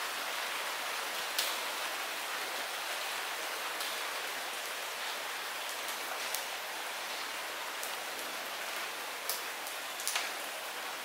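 Steady light rain falling, an even hiss with occasional louder single drops ticking, a few seconds apart.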